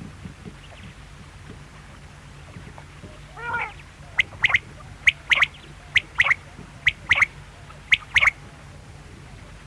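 Quail calling. First comes a short rolling note, then five quick phrases at about one a second, each a sharp note followed by a louder double note.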